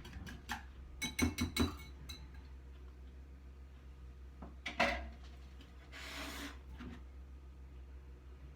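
Mixing bowl and pie plate clinking while whisked egg mixture is poured out: a quick run of four or five clinks about a second in, a single knock near five seconds, and a short scrape about six seconds in.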